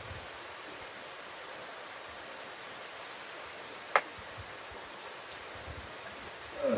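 Steady rush of a mountain stream, with one sharp click about four seconds in.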